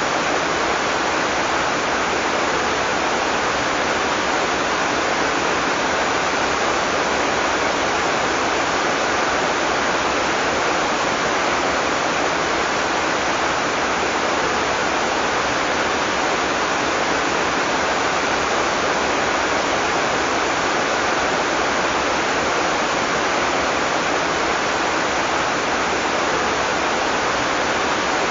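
Heavy tropical rain falling in a dense, steady hiss, with no thunder.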